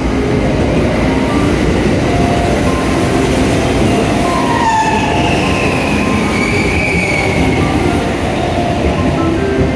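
JR West 683 series limited express train running into the platform and slowing, with a steady loud rumble of wheels on the rails. A squeal rises over it about halfway through and fades a few seconds later.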